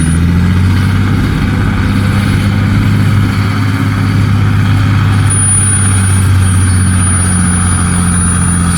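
Dump truck's heavy diesel engine running steadily at a constant speed. A thin high whine joins about halfway through.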